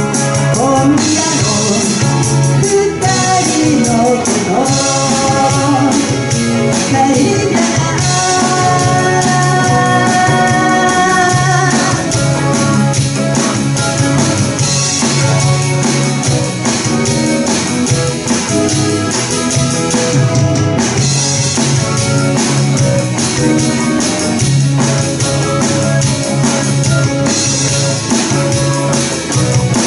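Live pop band playing a song: sung lead vocals over drum kit, bass and keyboard, with a steady beat.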